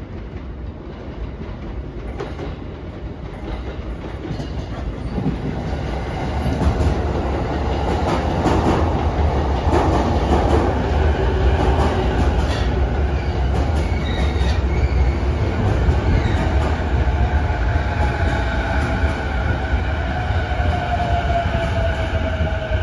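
JR East E233 series electric train pulling into the platform. The rumble of its wheels on the rails grows louder over the first six seconds, with clacks over the rail joints as it passes. In the second half a whine falls in pitch as the train brakes toward a stop.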